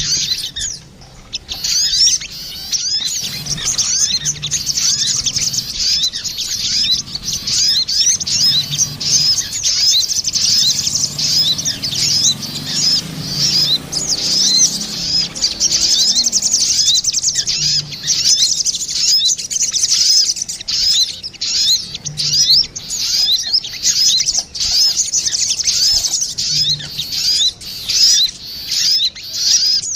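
Sogon birds, male and female, calling back and forth in a continuous stream of rapid, high chirping notes: a bird-lure (pikat) call recording.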